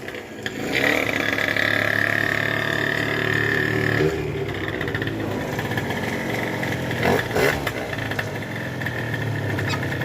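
Two-stroke 70cc engine with a Top Performances TPR 70cc kit and performance exhaust. It is revved about a second in and held at high revs for about three seconds, then drops back to a lower steady run, with one short blip of the throttle near 7 seconds.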